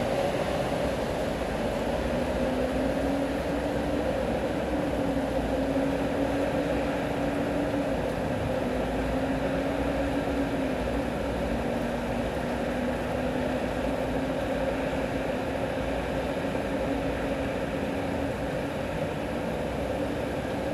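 Steady rain over city traffic, an even hiss and hum. A low engine drone wavers slightly in pitch through most of it.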